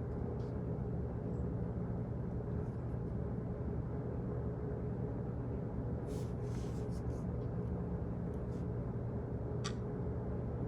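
Office background noise: a steady low hum, with a few scattered clicks about six to seven seconds in and one sharp click near the end.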